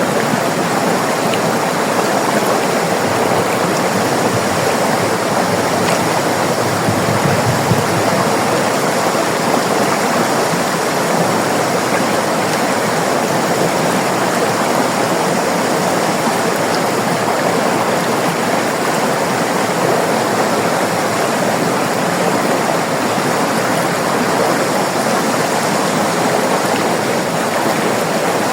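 River water rushing and burbling over rocks, a steady, unbroken flow.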